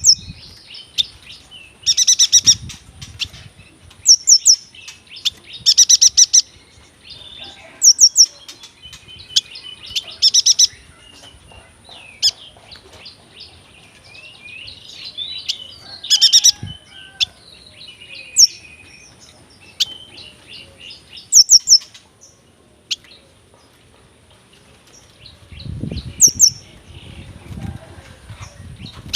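Yuhina singing: repeated loud, high chirps made of quick falling notes, mixed with softer twittering phrases. A low fluttering rustle comes near the end.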